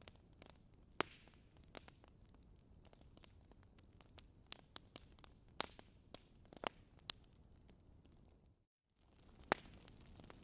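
Wood fire in a fireplace crackling, with irregular sharp pops over a soft hiss. The sound cuts out completely for a moment about nine seconds in, then the crackling resumes.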